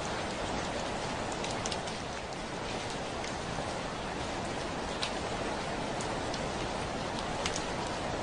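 Heavy rain falling on a window: a steady hiss with scattered sharper taps of single drops.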